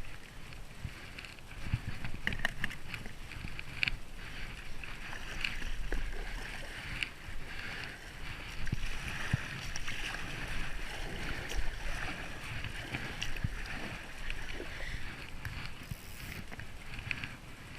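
River water running and splashing around a kayak, with scattered light knocks and a low rumble.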